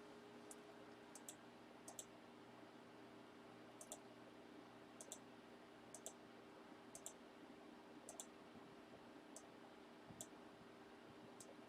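Near silence with faint, short clicks at irregular intervals, about a dozen in all, over a faint steady hum.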